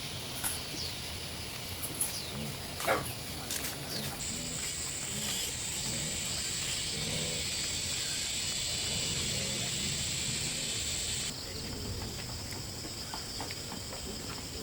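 Insects droning steadily and high-pitched, with one layer of the chorus switching on about four seconds in and cutting off abruptly about eleven seconds in. A few faint clicks sound in the first three seconds.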